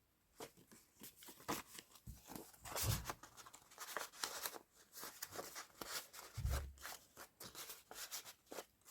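Paper pages and tags of a handmade junk journal rustling and crinkling as they are turned and handled, with two soft low thumps.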